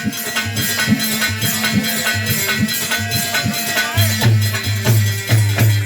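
Instrumental break in live folk music: rattling hand percussion keeping a fast, even beat, about four strokes a second, over sustained melody tones. Deep drum beats join about four seconds in.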